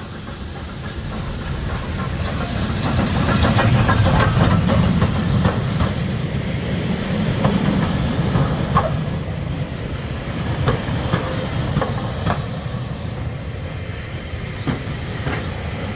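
Steam train running into the station: a low rumble with steam hiss, growing louder over the first four or five seconds, then the wheels clicking over the rail joints as the carriages roll by.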